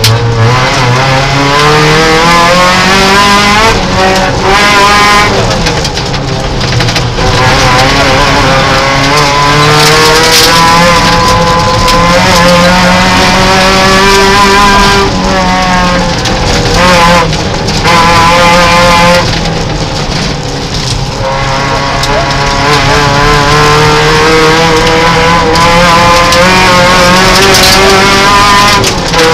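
Peugeot 309 rally car's engine at full stage pace, heard from inside the cabin: revs climbing and dropping again and again as the driver accelerates, changes gear and lifts for corners.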